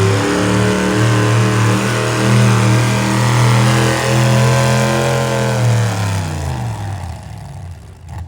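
A pulling vehicle's engine running hard at steady high revs, then throttling down about six seconds in, its pitch falling as it fades, as at the end of a pull.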